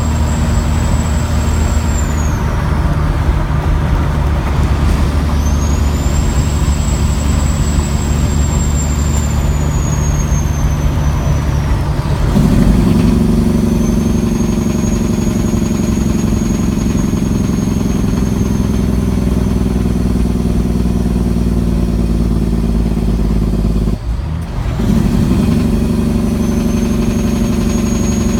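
Caterpillar C15 diesel with a single turbo, working under heavy load, with a high turbo whistle over the engine. The whistle falls away about two seconds in, spools back up a few seconds later and carries on at a slightly lower pitch. The engine note changes about twelve seconds in, and the engine sound breaks briefly near the end.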